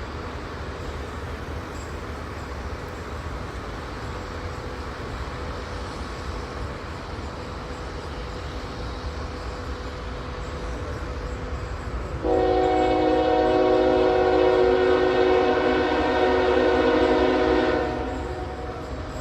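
Locomotive air horn sounding one long chord blast of several tones, about five seconds long, starting about twelve seconds in, over the steady low rumble of an approaching train.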